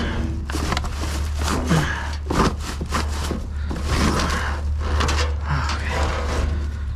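Junk being rummaged through and pulled out of a dumpster: irregular knocks, scrapes and rubbing, over a steady low hum.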